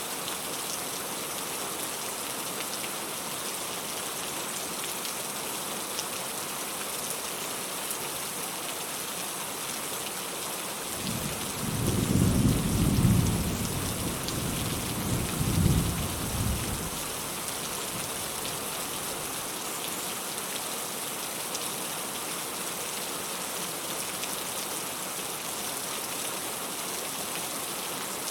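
Steady rain falling, with a low rumble of distant thunder that swells about a third of the way through, peaks twice and dies away after about six seconds.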